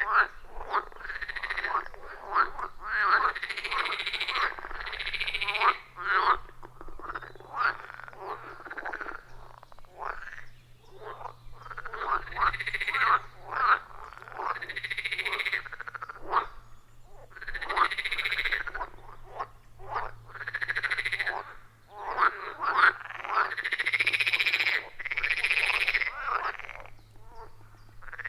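A chorus of frogs calling at a pond: overlapping calls, each rising and then falling in pitch, come in bouts of a few seconds with brief lulls between.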